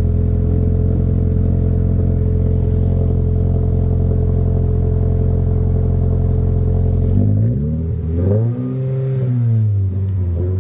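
Scion FR-S's 2.0-litre flat-four engine running through a muffler-delete exhaust: idling steadily for about seven seconds, then revved up and back down, with a second rev starting near the end.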